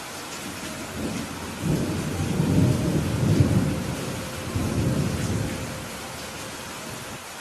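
Steady rain hiss with a roll of thunder that rumbles in about a second in, swells twice and dies away by about six seconds.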